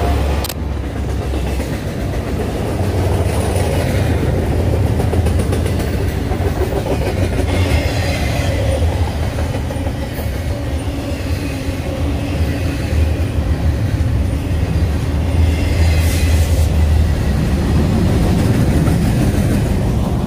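BNSF double-stack intermodal freight train rolling past: a steady low rumble of wheels on rail with a few brief higher swells of noise. It grows slightly louder near the end as the rear diesel locomotives go by.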